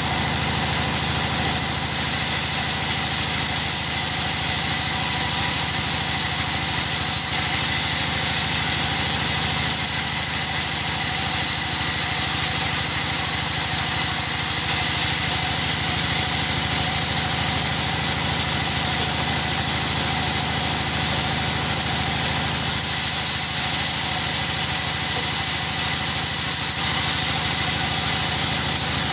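A machine motor running steadily, with a steady high whine over a low hum and no change in speed.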